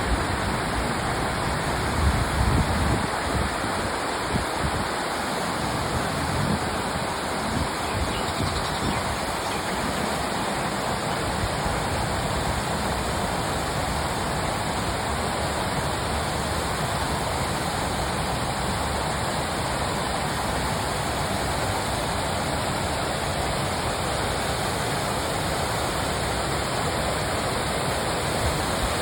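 Small waterfall splashing into a stream: a steady, even rush of falling water. A low rumble joins it for the first few seconds.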